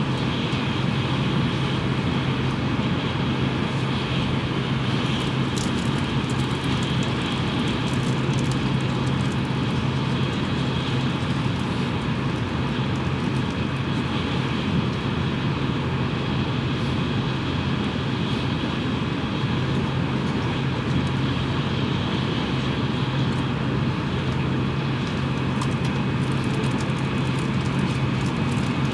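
Steady cabin noise inside a Tokaido Shinkansen car running between stations: a constant low hum with a rushing of air and wheel noise, unchanging throughout.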